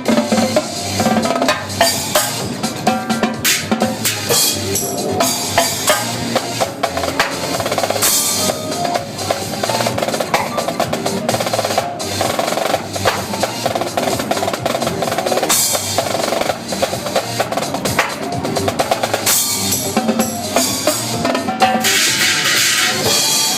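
Live drumming on Mapex drums over a dance-music track: fast snare rolls and rim strikes with bass drum, drum-corps style.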